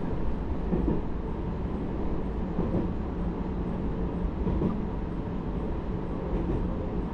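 Cabin noise of a Hakodate Liner electric commuter train running: a steady low rumble of wheels on rails.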